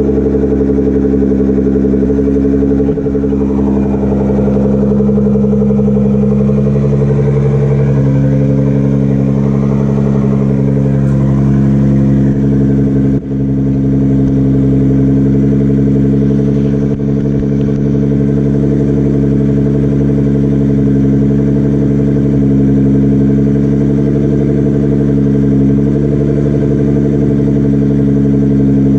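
Nissan GT-R R35's twin-turbo V6 idling steadily through a freshly installed straight-piped Nismo exhaust, a loud, even drone.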